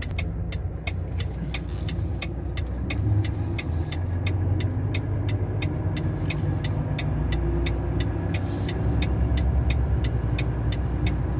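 Heavy truck's diesel engine running steadily while it reverses, with a short high beep repeating about three to four times a second, typical of a reversing alarm.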